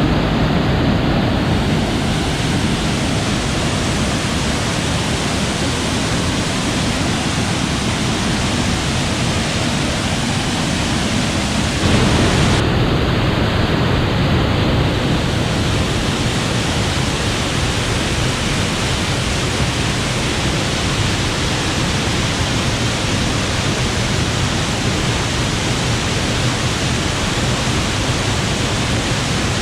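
Loud, steady roar of a large waterfall heard up close, its falling water and spray making an even rushing noise. The level steps up briefly about twelve seconds in.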